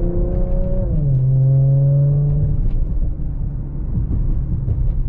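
2017 Audi SQ5's V6 with AWE non-resonated downpipes and Touring catback exhaust, heard from inside the cabin under acceleration. The engine note climbs, drops at an upshift about a second in, climbs again, and then eases into a steady low rumble.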